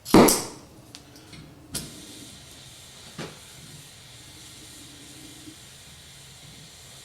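A gas torch burning with a steady hiss. Over it come a few short knocks and scrapes of metal in the first few seconds, the loudest just at the start, as a small steel rivet's cut end is cleaned up.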